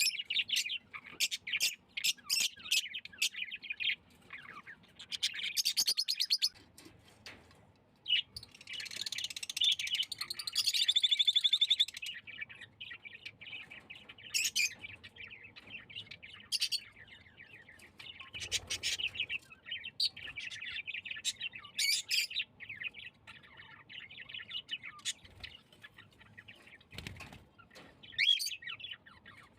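Small cage birds, budgerigars and Java sparrows, chirping in quick short calls. There is a loud stretch of rapid, dense chatter about a third of the way through.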